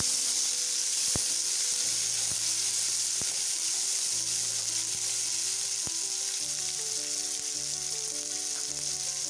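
Onions, green chillies and chopped tomato sizzling steadily in hot oil in a non-stick kadai, with a few light taps of the spatula against the pan as it is stirred in the first half.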